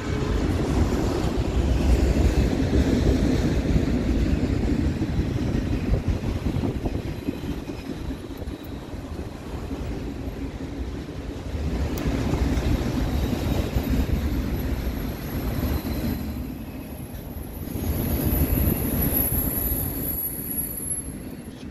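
Autorack cars of a CN freight train rolling past: a continuous rumble of steel wheels on the rails that swells and eases as the cars go by. A thin high whine joins in over the last few seconds.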